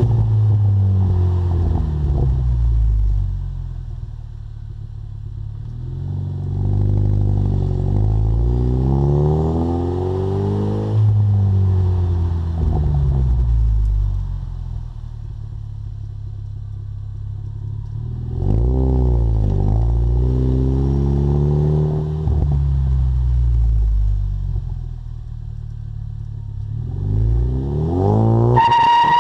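2015 Ford Mustang EcoBoost's turbocharged 2.3-litre four-cylinder through a Magnaflow Competition exhaust, climbing in revs several times with a drop after each climb. There is also one quick rev blip a little past the middle.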